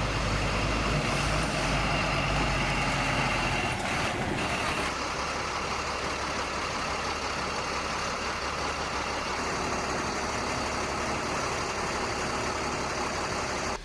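Tow truck engine idling under a steady hiss of rain; the low engine hum drops away about four seconds in while the rain hiss carries on.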